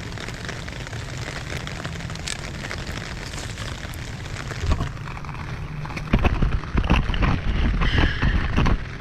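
Rain falling steadily, with a patter of small crackles. About six seconds in, loud rumbling buffeting on the microphone takes over for nearly three seconds.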